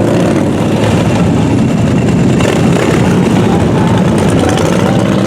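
An engine running steadily, loud throughout.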